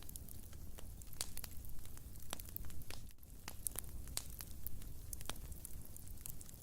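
Wood fire in a fireplace crackling, with frequent irregular sharp pops over a low rumble of burning, a short lull about three seconds in.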